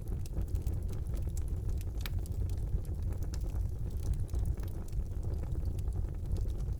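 Wood fire burning in a fireplace: a steady low rumble of flames with scattered sharp crackles and pops, one louder pop about two seconds in.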